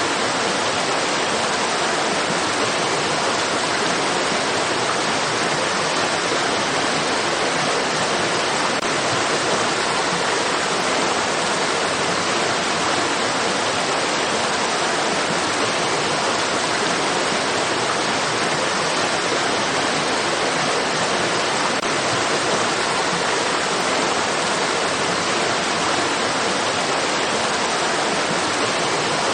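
Steady rushing of stream water, an even hiss with no breaks or changes.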